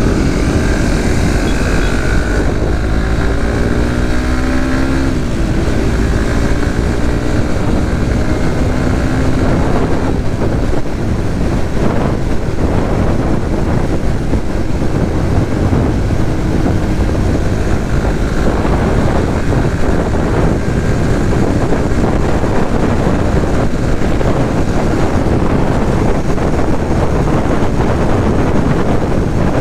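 Suzuki GSX-S150 single-cylinder engine running on the move under heavy wind rumble on the microphone. Over the first few seconds the engine's pitch climbs as it revs, then it settles into a steady cruise.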